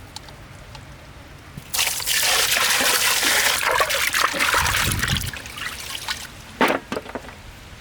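Water poured and splashing over raw chicken pieces in a vessel as they are rinsed after a turmeric rub. The water runs for about three and a half seconds from about two seconds in. A few knocks follow near the end.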